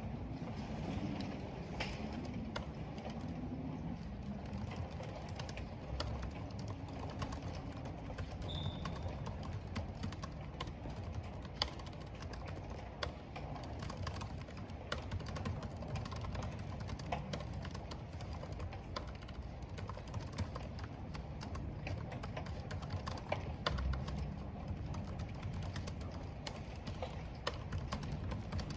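Someone typing on a computer keyboard, keys clicking at an irregular pace, over a steady low rush of wind and rain.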